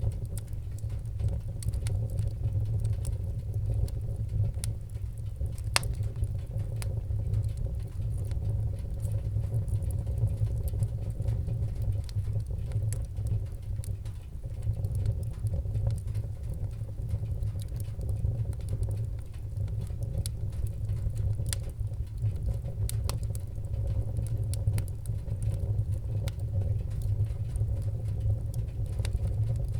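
Wood fire crackling in a fireplace: frequent small sharp pops and snaps scattered irregularly over a steady low rumble of the flames.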